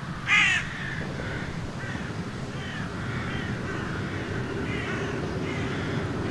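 Birds giving short, harsh, repeated calls, one loud call about a third of a second in and fainter ones following every half second or so, over a low steady rumble that slowly grows louder.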